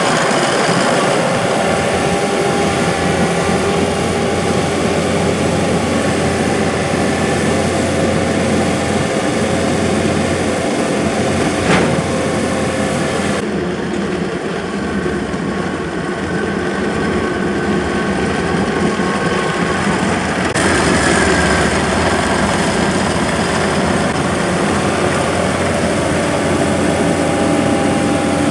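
Tracked skid steer engine running steadily while it loads logs with its grapple, with one sharp knock about twelve seconds in.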